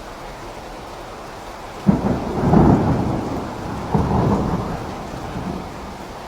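Steady rain with a clap of thunder breaking in about two seconds in, a second crack about two seconds later, and the rumble dying away near the end.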